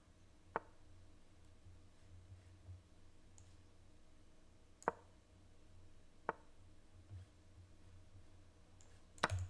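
Four short, sharp clicks a few seconds apart over a faint low hum, the last a quick double click and the loudest, from moves being played in a fast online chess game.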